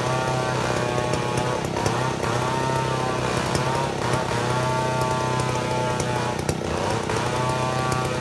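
Chainsaw running at high throttle under load as it rips a mahogany log lengthwise, its pitch dipping and recovering about every two seconds.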